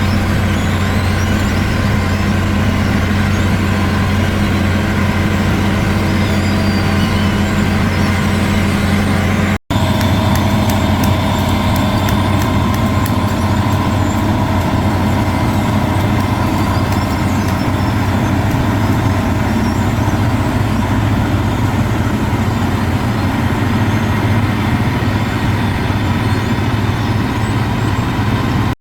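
Diesel engine of a small box truck running steadily. The sound breaks off for an instant about ten seconds in, then carries on much the same.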